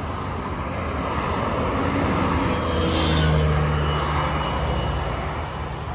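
A motor vehicle passing on the road, its engine and tyre noise swelling to a peak about halfway through and then fading away.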